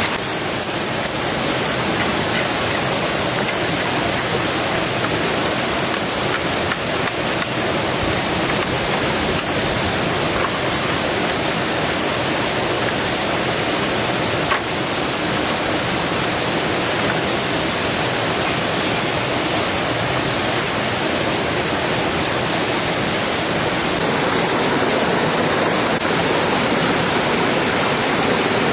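Steady heavy rain falling, an even hiss, with one short tap about halfway through.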